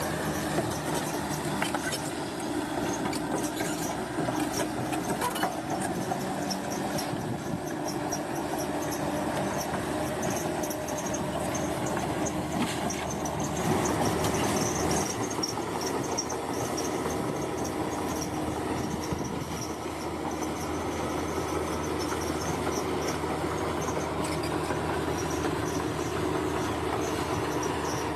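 A bulldozer at work: its diesel engine runs steadily, with the clatter of its steel tracks, a little louder about halfway through.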